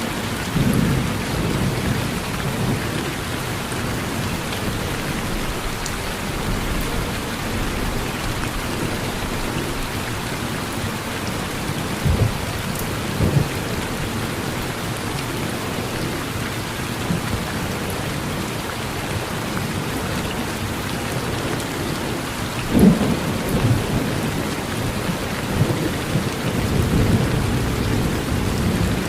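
Steady rain falling with several rumbles of thunder rolling through; the loudest thunderclap comes about three-quarters of the way through, followed by a longer rumble.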